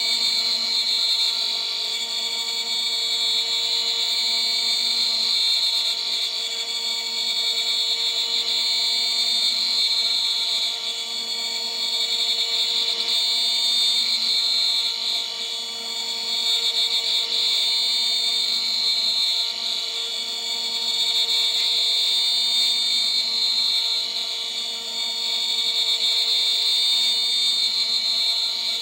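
CNC spindle running at about 14,000 rpm with a 3 mm three-flute end mill, milling at a slow feed. It makes a steady high whine that wavers slightly in loudness and dips briefly twice.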